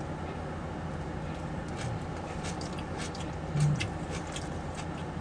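Soft, irregular mouth clicks from chewing food, about one or two a second, over a steady low background hum, with a brief low 'mm' from the eater about three and a half seconds in.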